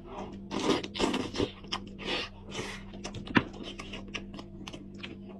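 Close-miked eating of a goat head: wet chewing, sucking and lip-smacking in quick irregular bursts with small clicks, one sharper click a little past three seconds in, over a steady low hum.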